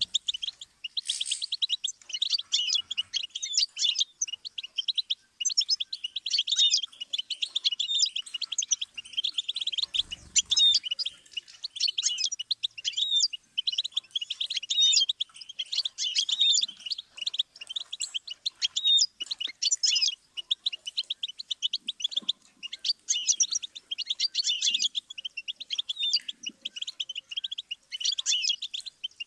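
Goldfinch singing: long, rapid twittering phrases of quick high chirps and trills, broken by brief pauses every few seconds.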